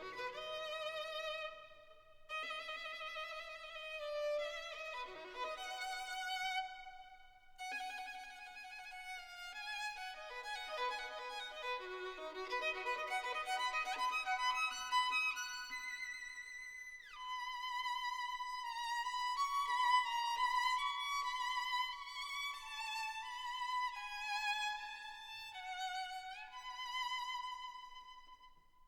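Background music: a solo violin playing a slow melody of held notes with vibrato, with brief pauses between phrases.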